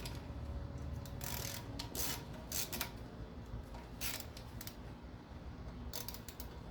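Socket ratchet working 12 mm nuts off an engine: short, irregular rasping strokes of ratchet clicking, several over a few seconds.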